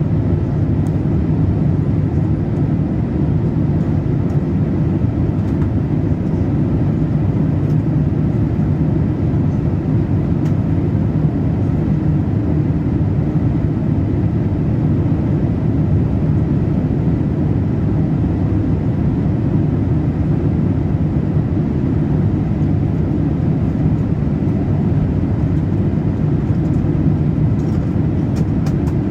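Steady cabin noise inside a Boeing 787-8 airliner in flight: an even, low rush of airflow and engine noise that holds the same level throughout.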